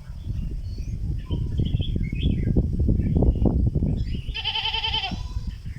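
Stripe-throated bulbul giving short chirping song notes over loud, irregular low rumbling noise. About four seconds in, a single short, wavering bleat stands out.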